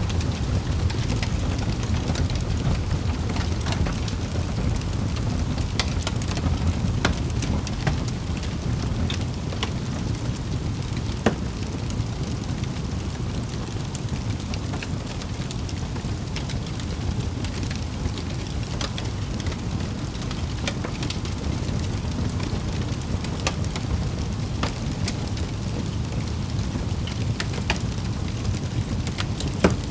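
Wood fire burning in a fireplace: a steady low rumble with scattered crackles and pops, a louder pop about 11 seconds in and another near the end.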